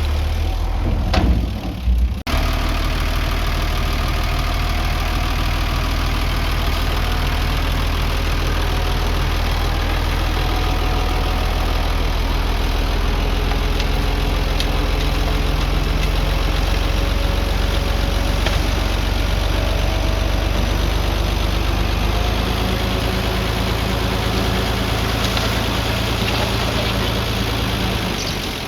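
Heavy earthmoving-machine diesel engine running steadily, with a few knocks and an abrupt change about two seconds in.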